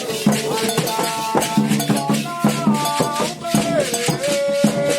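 Candomblé ritual music: steady percussion strikes with rattles and a bell, under a voice singing long held notes that slide between pitches.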